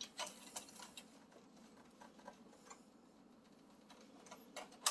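Faint, scattered small clicks and taps of hands handling plastic wiring connectors and parts in an oven's control panel, with one sharper click near the end.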